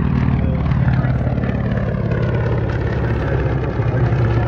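Piston aircraft engine running steadily, its pitch sinking slightly through the middle, with voices faintly behind it.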